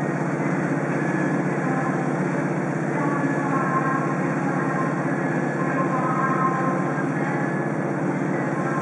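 A train running steadily at a standstill or crawl, a continuous low drone with faint higher tones drifting in and out around the middle.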